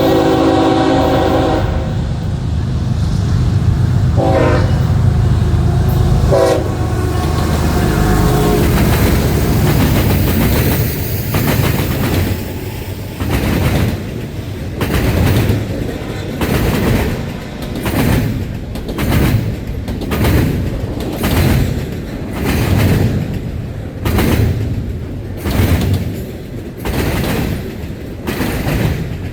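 CSX intermodal train passing: the lead diesel locomotives sound their multi-note horn, one long chord and then short blasts in the first eight seconds, over the locomotives' heavy rumble. The cars follow with a steady clickety-clack of wheels over rail joints, about one beat a second.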